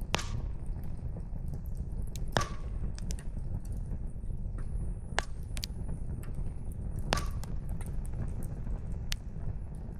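Wood fire burning with a steady low rumble, split by sharp crackles and pops from the burning logs, about five in all, two of them louder with a short ring.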